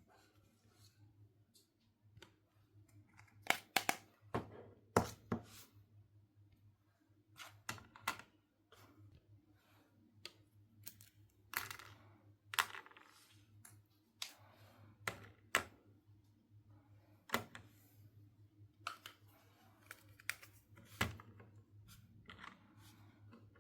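Irregular small clicks, taps and rustles of plastic toy pieces and packaging being handled, spaced unevenly a second or two apart, over a faint steady low hum.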